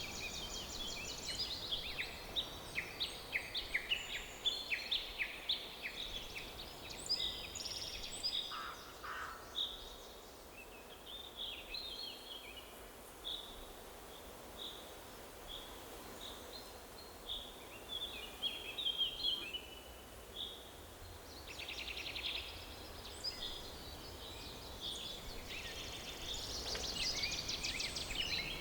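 Several songbirds chirping and singing in a forest chorus: a busy burst of overlapping calls at first, scattered chirps through the middle, then rapid trills and a dense chorus again near the end.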